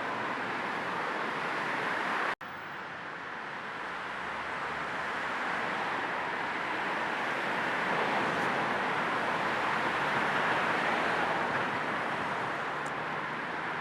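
Steady car-ride noise of a moving car blended with white noise, an even hiss without distinct events. It cuts out for an instant about two seconds in, then resumes and swells gently.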